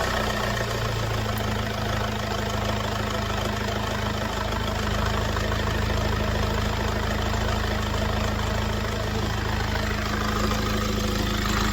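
Mercedes-Benz W204 engine idling steadily and smoothly, now running calm with a new belt tensioner pulley and alternator overrunning pulley fitted.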